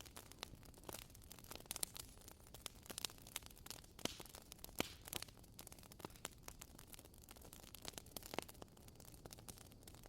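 Wood fire crackling, with a faint hiss and many irregular snaps and pops, a few of them sharper than the rest.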